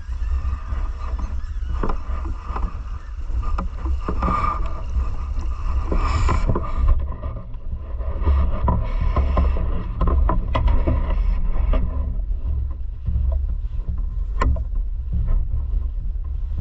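Flowing river water: a steady low rumble with scattered small clicks and knocks.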